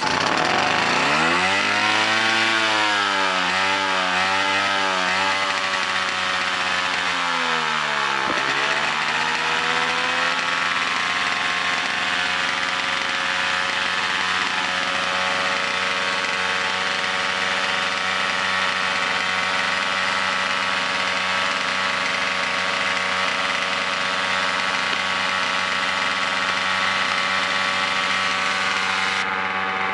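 A 1965 Sachs 47cc single-cylinder stationary engine starts and surges unevenly, its speed rising and falling, then almost dies about eight seconds in before picking up and running at a steady speed. The uneven running fits the engine's known fault of not running properly.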